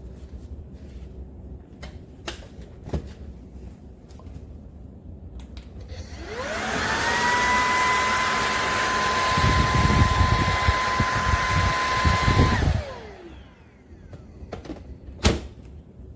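Bissell PowerClean FurGuard cordless stick vacuum switched on: its motor spins up with a rising whine, runs steadily for about six seconds with low bumping in the second half, then is switched off and winds down with a falling whine. A few light clicks and knocks before and after.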